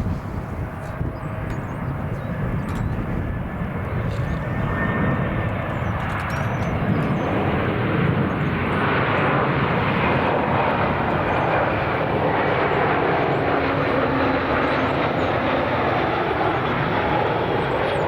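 Jet airliner engines passing close by, a steady rushing noise that swells about a third of the way in and stays loud.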